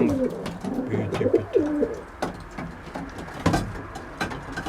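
Racing pigeons cooing in the loft, low gliding coos in the first two seconds, with scattered sharp clicks and taps and a louder knock about three and a half seconds in.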